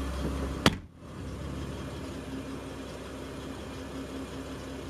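Low steady rumble of a car's cabin, ended abruptly by a sharp click about a second in; a quieter steady hum with a faint tone follows.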